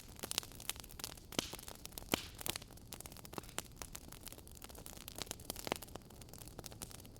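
Fireplace crackling: irregular sharp pops and snaps, several a second, over a soft steady hiss.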